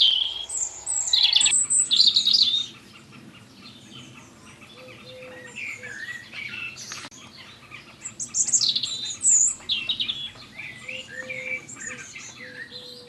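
Small birds chirping and singing in quick high twitters. The chirping is loudest for the first two and a half seconds, then carries on more faintly.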